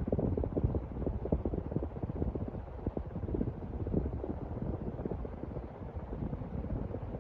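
Hunter Mariner 52-inch ceiling fan running, its airflow buffeting the microphone as an uneven low rumble.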